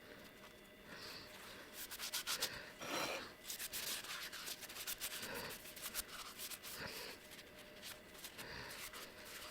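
Quick irregular rubbing and scraping strokes, starting about two seconds in and going on until near the end.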